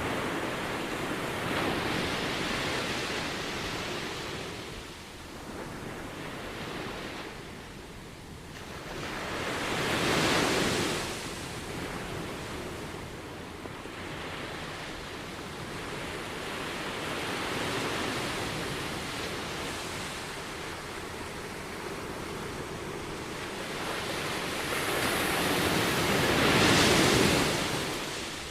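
Small ocean waves breaking and washing up on a sandy beach, rising in slow swells with the two loudest breakers about ten seconds in and near the end, and a steady wash of surf between them.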